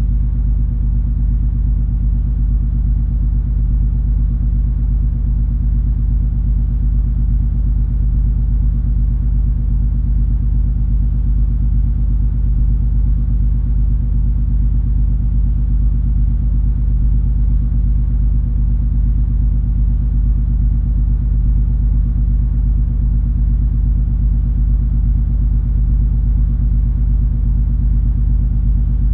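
Steady low drone of the MS Color Fantasy cruise ferry's engines under way, a constant rumble with a few low steady hums and no change in pace.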